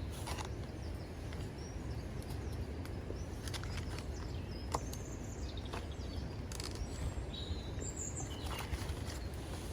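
Outdoor ambience: a steady low rumble with a few scattered small clicks and faint bird chirps, one short chirp call about three-quarters of the way in.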